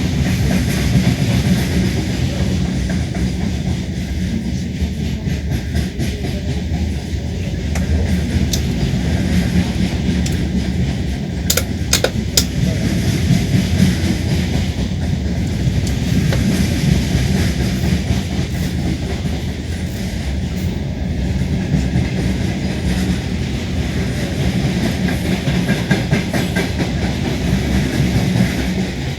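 Train wheels clattering over the rail joints, heard from inside a moving carriage at the window, with a steady rumble under it and three sharp clicks about twelve seconds in.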